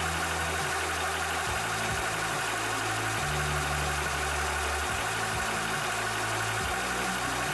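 Cobra high-pressure PCP air compressor running steadily, its pump working at an even, unchanging level.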